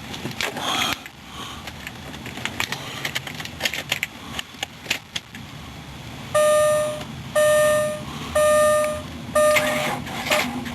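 Clicks and clunks of keys and the car's interior, then a 2004 Ford Explorer's warning chime dinging four times, about once a second, each ding lasting under a second.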